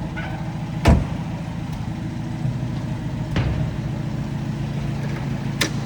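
1963 Wolseley 1500's BMC B-series four-cylinder engine idling steadily, ticking over smoothly. A sharp thump about a second in, with two fainter knocks later.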